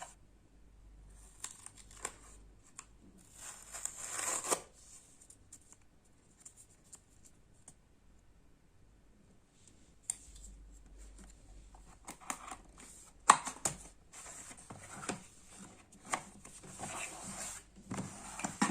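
Seal on a headphone box being torn and the packaging opened by hand: a tearing, rustling burst a few seconds in, a quiet stretch, then crinkling of packaging with several sharp clicks and taps as the box is unpacked.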